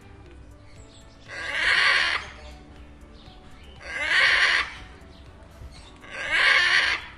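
Macaw squawking: three loud, harsh calls about two and a half seconds apart, each lasting just under a second.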